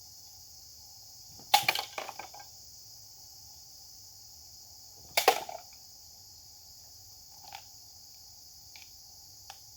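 A steady high insect drone, with two sudden sharp swishing, crunching bursts about four seconds apart, each lasting about half a second. A few faint clicks come near the end.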